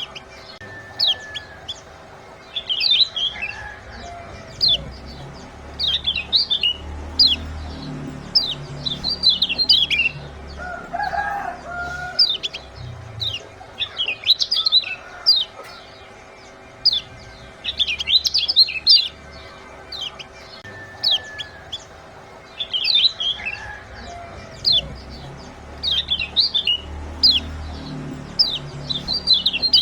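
Small songbirds chirping rapidly in quick, sharp, high clusters, with a lower call twice. This is a looped birdsong lure track, so the same passage repeats about every eighteen seconds.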